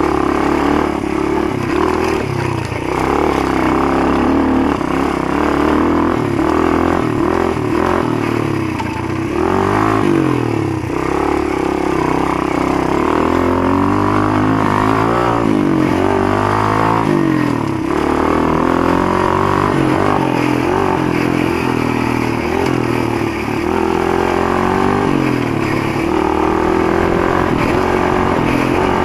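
Motoland GF125 pit bike's 125 cc single-cylinder four-stroke engine running under way, the revs rising and falling several times in the middle as the bike accelerates and backs off.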